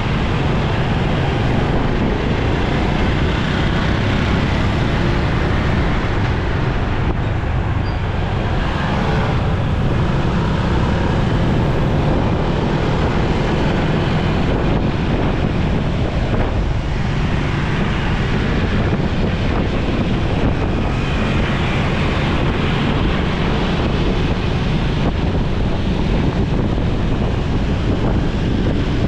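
Steady wind rush on the microphone of a moving motorcycle, over traffic and road noise.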